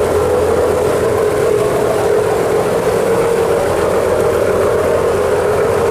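Boat engine running steadily, a constant drone with a strong, unchanging pitch.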